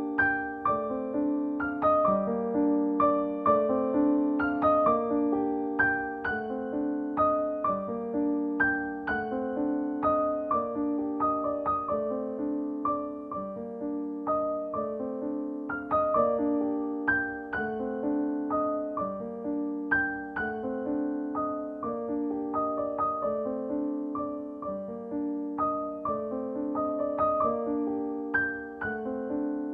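Solo piano music: a gentle melody of struck notes over a repeating pattern that comes round every couple of seconds.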